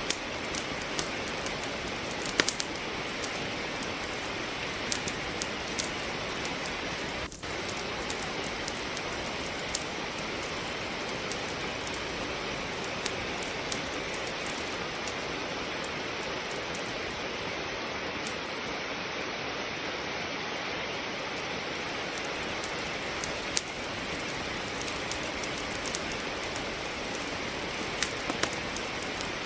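Steady rain falling, with scattered sharp pops and crackles from burning firewood in a fireplace.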